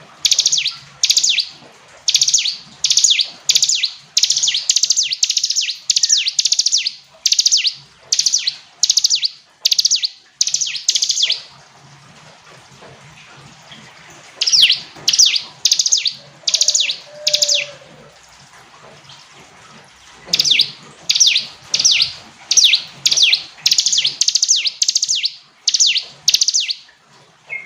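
Ciblek gunung, a prinia, singing: three bouts of quick, high, repeated chirping notes, about two phrases a second, with short pauses between the bouts.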